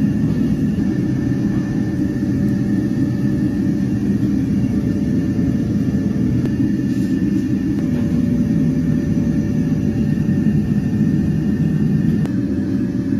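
Steady low rumble of the stove under the iron stew pot, unbroken, with faint steady whines above it.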